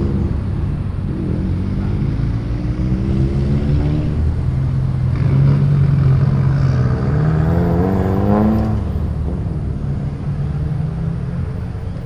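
Car engines accelerating as cars pull away one after another, their pitch rising twice. The second pull is louder and climbs until it drops off about three-quarters of the way through.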